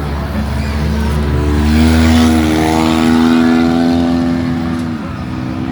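Demolition derby car engine revving: about a second and a half in it climbs in pitch, holds high for a few seconds, then drops back near the end.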